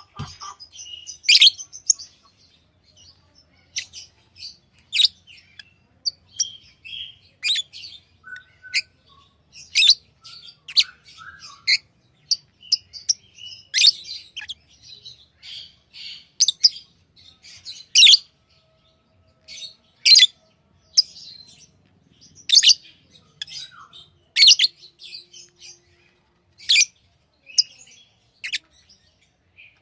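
Pet lovebirds chirping: short, sharp, high-pitched chirps at irregular intervals, roughly one every second.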